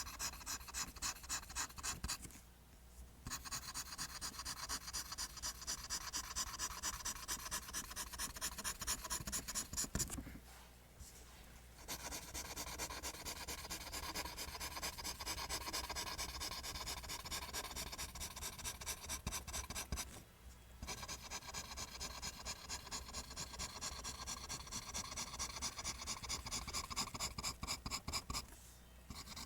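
Pencil drawing lines on paper: quick, even strokes scratching in a steady rhythm, stopping four times for about a second before going on.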